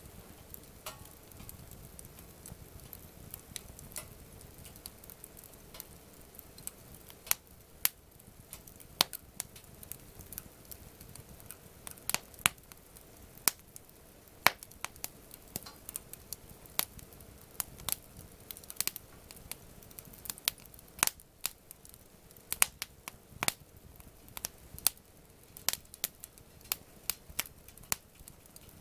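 Wood campfire crackling, with sharp, irregular pops that come thicker and faster from about seven seconds in.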